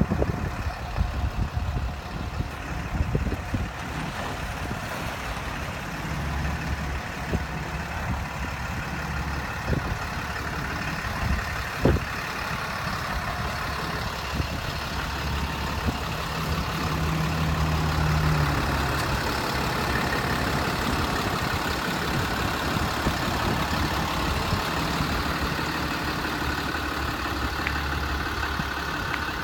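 6.7-litre Cummins diesel engine of a work truck idling steadily, growing a little louder from about 18 seconds in, with a single sharp knock about 12 seconds in.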